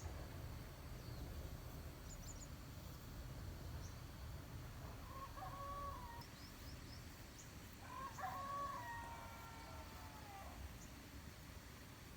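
A rooster crowing faintly twice, a short crow about five seconds in and a longer, drawn-out crow a few seconds later, with small birds chirping and a low outdoor rumble underneath.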